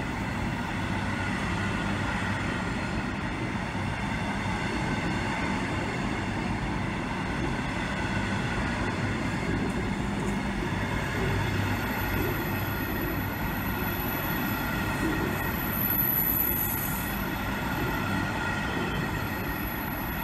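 Freight train of loaded open box wagons rolling past at steady speed: a continuous rumble and clatter of wheels on rail, with a steady high whine over it.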